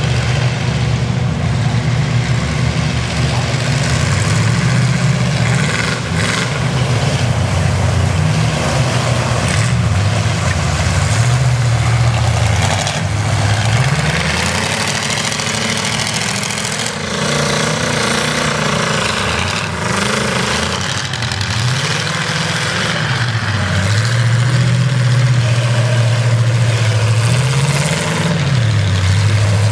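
Truck engine running and revving, its pitch rising and falling again and again, over a steady noisy background.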